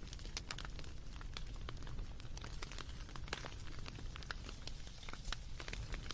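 Wood fire crackling: irregular sharp pops and snaps, many a second, over a steady low rumble.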